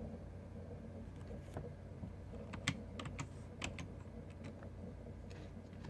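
Computer keyboard being typed on: scattered, irregular key clicks over a steady low hum.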